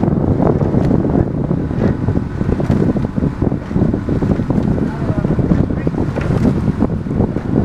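Strong wind buffeting the microphone in a steady low rumble, with faint distant voices underneath.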